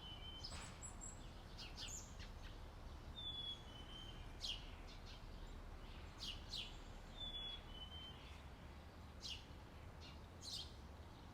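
Birdsong: a short two-note whistle repeated about every four seconds, with quick high chirps in between, over faint steady low background noise.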